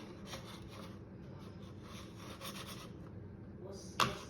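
Scratching and rubbing on a hard surface in short bursts, with one sharp click about four seconds in.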